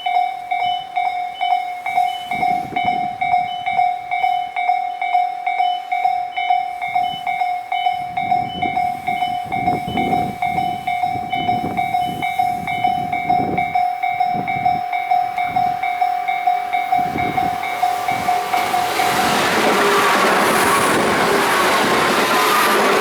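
Japanese level-crossing alarm ringing, a steady electronic ding about twice a second, while a Tobu 9000 series electric multiple unit approaches with low rumbles and knocks from the rails. About nineteen seconds in, the train reaches the crossing and the loud rushing noise and wheel clatter of it passing cover the alarm.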